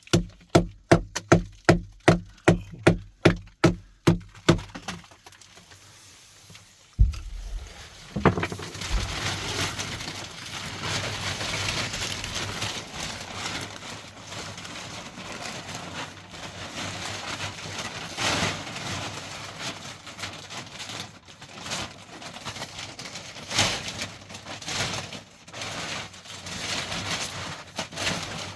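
Rapid, even hammer blows, about three a second, stopping about five seconds in. After a single thump about seven seconds in, a long stretch of irregular scraping and rustling follows.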